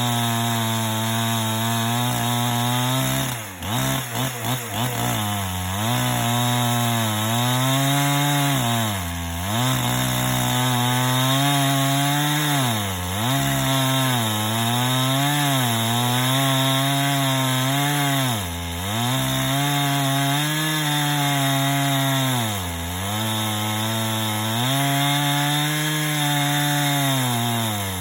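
Chainsaw in a chainsaw mill attachment ripping a log lengthwise into planks. The two-stroke engine runs at high speed and its pitch dips every few seconds as it bogs under the load of the cut, with a brief stutter a few seconds in.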